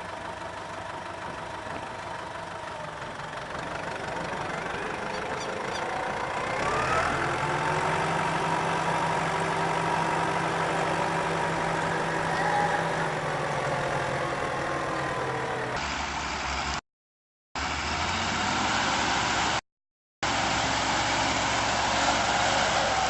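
A heavy vehicle's engine running. About six seconds in it revs up, rising in pitch and getting louder, and it holds there. Later the sound cuts off abruptly twice for a moment, with engine noise on either side.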